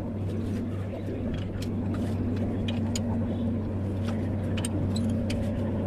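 An engine running steadily at idle with a constant low hum, with scattered light metallic clicks and taps over it.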